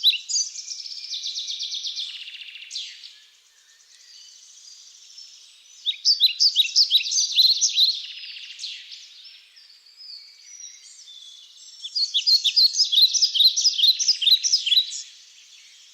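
High, fast chirping song from a wild creature in three bouts of about three seconds each. Each bout is a quick run of short sliding notes, and some trail off into a thin steady buzz.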